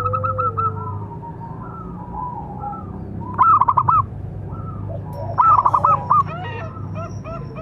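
Zebra doves (perkutut) calling, with a steady run of short repeated notes and two loud bursts of quick cooing notes, one halfway through and one about a second later. A steady low hum lies underneath.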